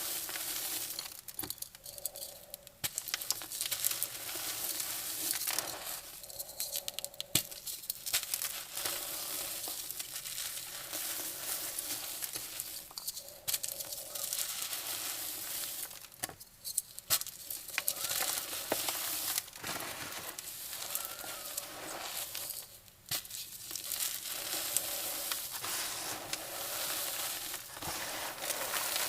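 Gym chalk coated in baking soda paste being crushed and crumbled by hand: a dense crackling crunch in bouts, broken by several short pauses.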